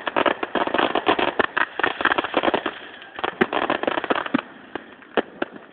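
Fireworks going off in a rapid barrage of bangs and crackles, thinning to a few scattered pops about four and a half seconds in.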